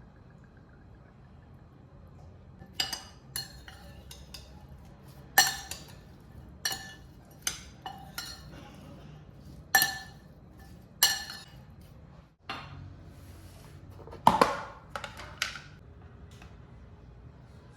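Dishes and cutlery being handled: a series of separate sharp clinks, each with a brief ring, spaced irregularly, with a louder cluster of knocks near the end.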